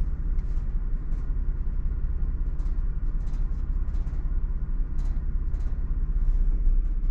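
Van's engine idling with a steady low rumble, heard from inside the cab.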